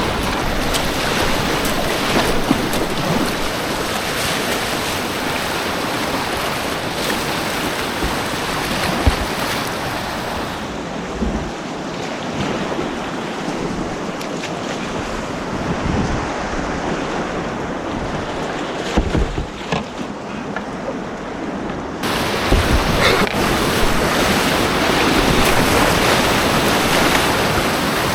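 Rushing white water on an artificial whitewater course: a steady, loud wash of noise, with wind on the microphone and a few low knocks. For about ten seconds in the middle the sound turns duller, losing its hiss, then comes back sharply.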